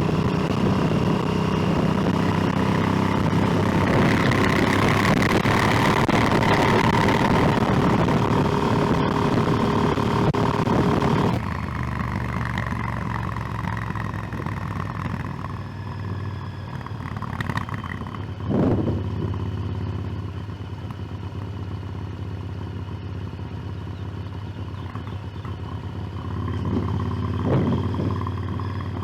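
Motorcycle engine running under way with wind and road noise. It is loud at first, then drops abruptly to a quieter, steady run about eleven seconds in, with two brief swells later on.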